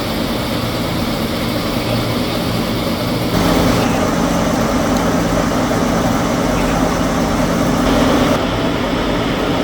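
Steady factory machinery running, a continuous mechanical hum and clatter whose character changes abruptly about three seconds in and again near the end.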